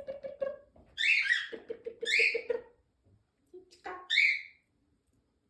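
Indian ringneck parakeet calling: three short, high calls with a lower, rapidly pulsing chatter between the first two.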